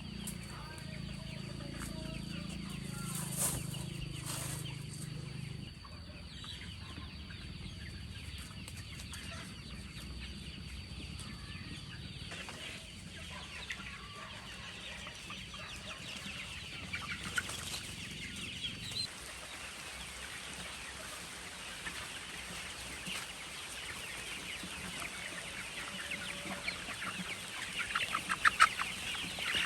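Chickens clucking, with many short calls throughout and a louder run of quick repeated calls near the end.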